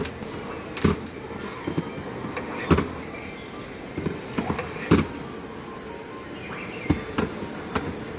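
Scattered light knocks and clicks over a steady background hiss, which grows brighter about two and a half seconds in.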